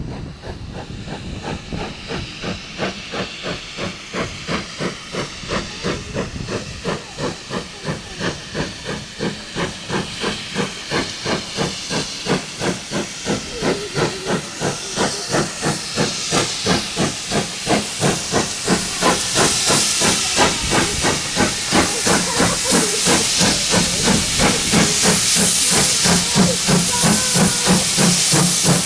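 Steam locomotive working under steam, its chimney exhaust beating evenly with steam hiss, growing steadily louder as it approaches.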